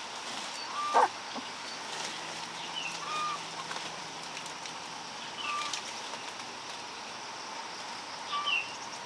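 Outdoor farm ambience with a bird's short chirping call repeating every two to three seconds, and one louder, sharper call with a falling pitch about a second in.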